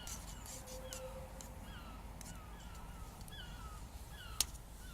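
Birds calling over and over in short hooked calls, about two a second and overlapping, with the odd sharp crackle from the wood fire and one louder crack about four and a half seconds in.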